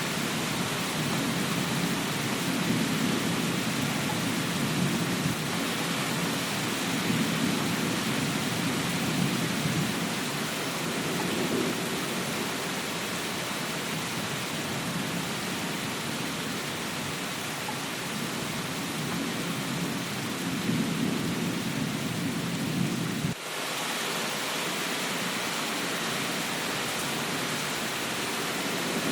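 Steady heavy rain hiss with a low rumble that swells and fades several times. The sound drops out for a moment about three-quarters of the way through, then resumes.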